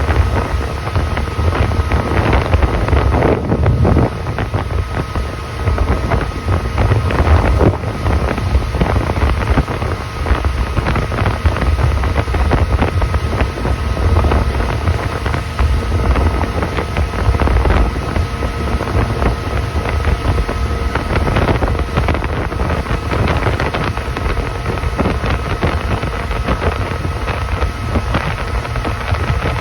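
Motorboat under way: its engine runs steadily under heavy wind buffeting the microphone.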